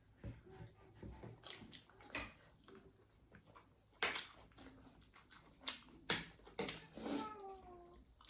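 People eating at close range: wet mouth smacks and chewing with sharp crunches, the loudest about four and six seconds in. Near the end comes a brief sound with a falling pitch, like a short hum or murmur.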